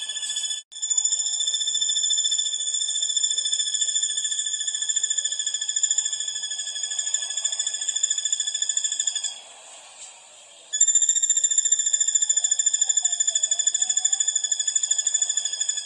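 A high, fast-pulsing animal trill with a steady pitch, the kind of recorded song material (isian) played to train competition songbirds. It holds for about nine seconds, breaks off, and starts again about a second and a half later.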